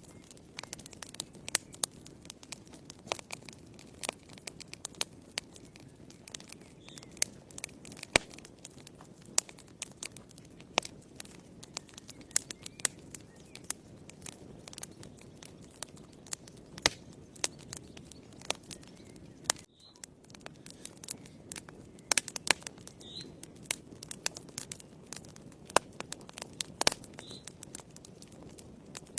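Fire crackling in a fireplace: irregular sharp snaps and pops, a few every second, over a soft low rustle of the flames.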